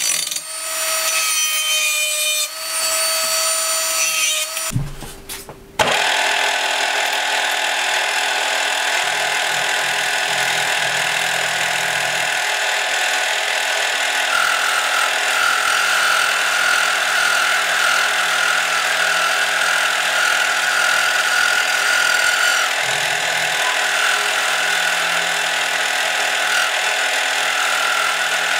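A small handheld power tool with a cone-shaped bit deburring a steel edge, its motor whine rising and falling. About five seconds in it cuts to a drill press boring a hole through steel plate, running steadily, with a higher whine for several seconds in the middle.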